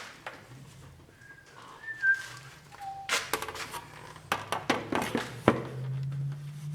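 A few short, thin whistled notes, then a run of sharp clicks and knocks in the middle, like tools or a workpiece being handled on a workbench, over a faint low hum.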